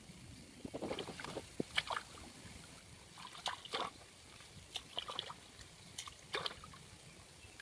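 Water splashing and sloshing in short, irregular bursts, with small knocks in between.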